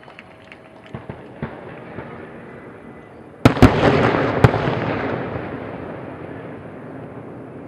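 Fireworks display: a few small pops, then about three and a half seconds in two heavy bangs close together and a third a second later, followed by dense crackling that slowly fades away.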